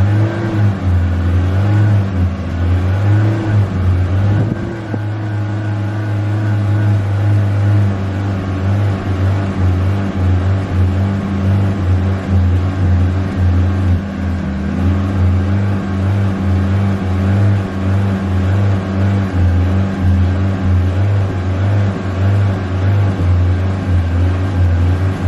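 Honda Civic's four-cylinder engine running with repeated light throttle pumps; the pitch wavers up and down with each press rather than climbing into long, high revs.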